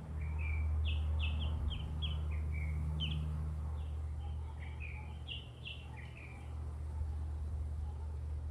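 Songbirds chirping: a quick run of short, high, falling notes, several a second, thinning out after about six seconds, over a steady low rumble.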